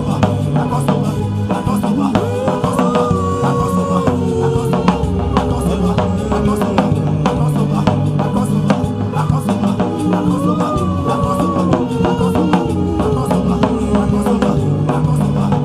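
Live instrumental worship music: a drum kit keeps a steady beat under sustained low keyboard chords. A gliding melody line comes in twice, about two seconds in and again about ten seconds in.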